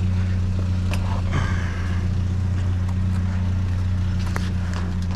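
A vehicle engine idling steadily, with scattered light clicks and rattles of scrap and debris being handled.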